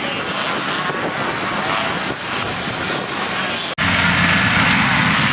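Several motocross bikes' engines revving on the track, with wavering pitch as riders work the throttle. A sudden break about four seconds in gives way to a louder, steadier engine drone.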